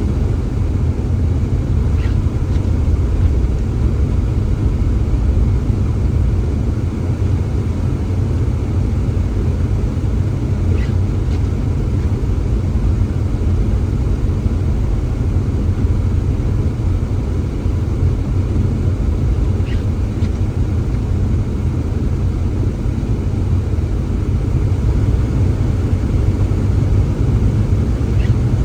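Steady low rumble of strong blizzard wind buffeting the microphone, with a few faint brief high ticks scattered through it.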